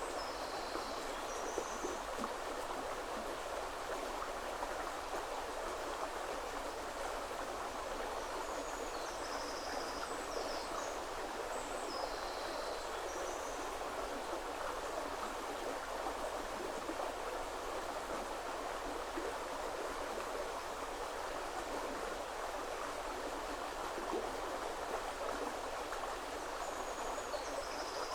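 River water flowing steadily, an even rushing sound throughout. A few short, high bird calls come through about a second in, again several times between about nine and thirteen seconds in, and once more at the end.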